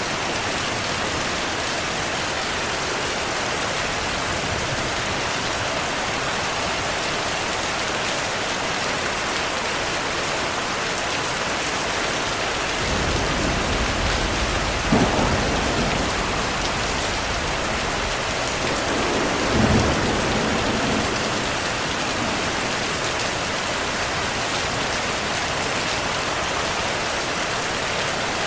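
Steady rainfall hissing, with a thunder rumble that builds about halfway through, peaks in two louder claps a few seconds apart, then rolls away.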